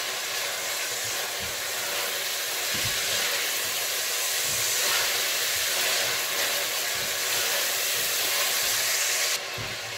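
Onion and garlic-ginger paste sizzling in hot ghee in a stainless steel pot while being stirred with a silicone spatula: a steady frying hiss with soft knocks of the spatula. The hiss drops abruptly near the end.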